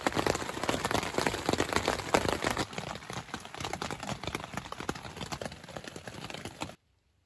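Rain drumming on a tent, heard from inside: a dense, irregular patter of drops that eases a little partway through and cuts off suddenly near the end.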